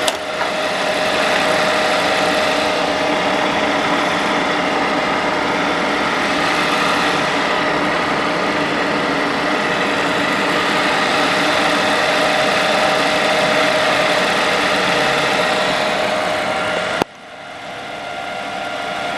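Onishi RV300F four-spindle paper drill running, a steady machine hum with a whine in it. About three seconds before the end the sound cuts off sharply, and a quieter hum then slowly grows louder.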